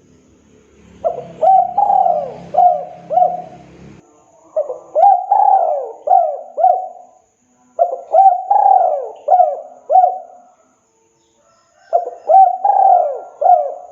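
Spotted dove (tekukur) cooing: four phrases of four or five quick, rising-and-falling coos each, a second or two apart.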